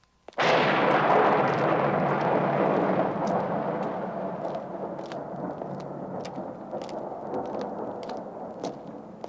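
A sudden loud thunder-like crash about half a second in, its rumble slowly dying away over several seconds, with light clicking steps throughout.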